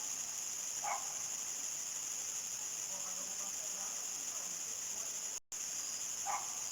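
Evening chorus of crickets trilling steadily at a high pitch, with two short, lower animal calls, one about a second in and one near the end. The sound drops out completely for a moment just after the middle.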